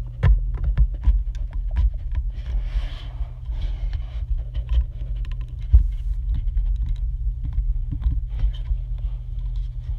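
Handling noise from fitting parts onto a 1:200 scale model airliner: many small clicks, taps and light scraping of the parts being pressed and worked into place, over a steady low hum.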